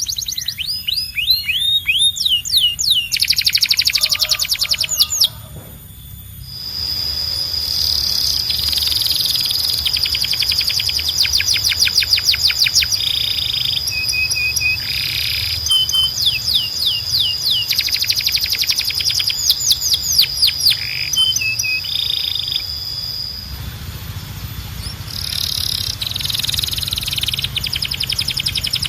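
Domestic canary singing: rapid high trills and chirped phrases repeated over and over, with a steady high whistle held beneath the song through much of the middle. The song drops briefly quieter about five seconds in.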